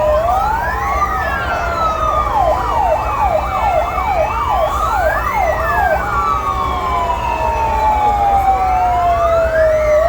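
Several fire truck sirens sounding together: a slow wail that rises and falls about every four and a half seconds, overlapped in the middle by a fast yelp sweeping up and down about twice a second. A low rumble runs underneath.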